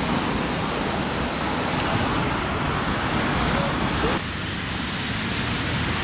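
Steady hiss of rain falling, which drops abruptly to a quieter, duller hiss about four seconds in.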